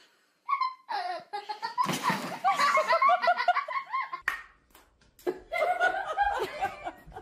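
People laughing heartily, in two bursts: one from about a second in to about four seconds, and another from about five seconds in to near the end.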